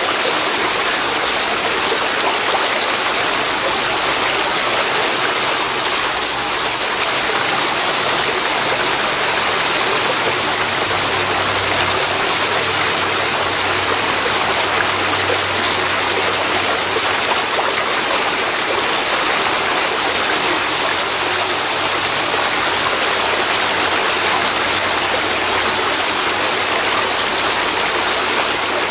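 Waterfall pouring into a river: a loud, steady rush of falling water.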